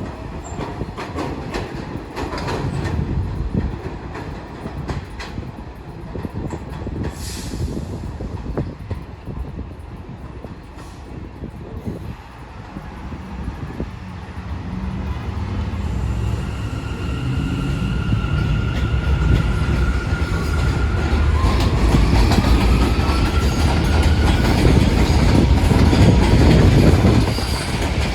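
New York City subway train running on the track, its wheels clattering over rail joints, with a steady rumble that grows louder through the second half and falls away near the end. Thin high squealing tones come in about halfway through, one of them rising in pitch.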